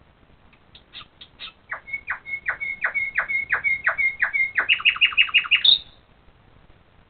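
A songbird sings one phrase of about five seconds. A few high notes lead into a run of about ten repeated, downward-sweeping whistles over a held high note. The whistles speed up into a faster series of about eight notes and end on a high flourish.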